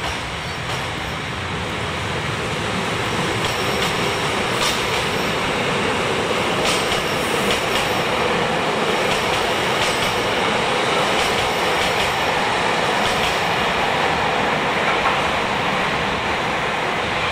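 Electric train running out of the station on the neighbouring track, its wheels and running gear clattering on the rails, with a few sharp clicks. The sound grows louder over the first few seconds and then holds steady.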